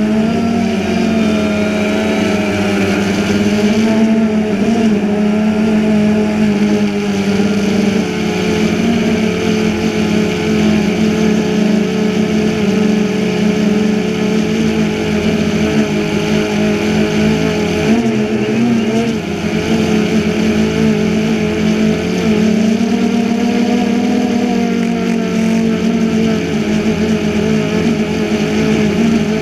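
DJI Phantom 2 quadcopter's motors and propellers running with a steady, loud hum, its pitch wavering slightly.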